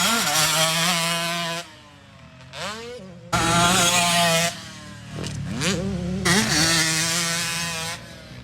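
Dirt bike engine revving on a motocross track, its pitch rising and falling with throttle and gear changes and dropping away briefly about two seconds in. Wind on the microphone adds a rush of noise from about three seconds in.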